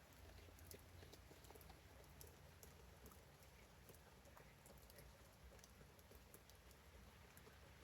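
Faint rain pattering: scattered raindrops ticking irregularly over a steady low background.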